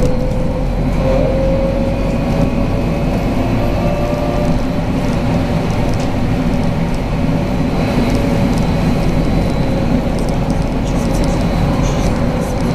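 BKM 43300D trolleybus under way, heard from inside the cabin: steady running and road noise with the electric traction drive's whine, which rises slightly in pitch over the first couple of seconds and sinks a little near the end.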